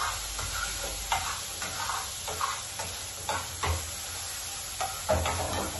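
Codfish frying in a pan on the stove, a steady sizzle, with a utensil stirring and clicking against the pan about every half second.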